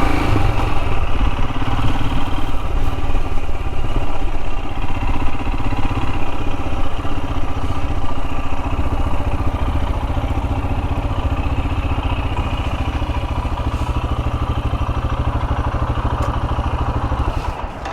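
Royal Enfield Himalayan's single-cylinder engine running steadily with a fine even beat. It cuts off abruptly near the end.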